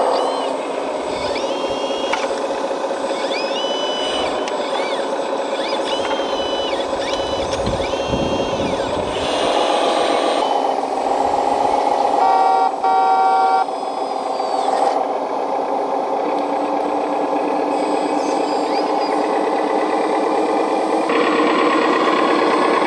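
1/14-scale hydraulic RC construction machines running: a steady simulated diesel engine sound with a hydraulic pump whine that rises and falls several times as the machines work, and a short burst of reversing beeps near the middle.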